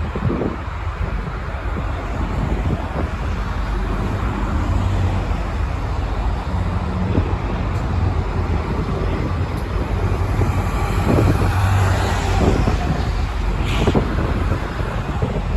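Road traffic: cars, trucks and buses passing, a steady rumble of engines and tyres, with a brief higher-pitched sound near the end.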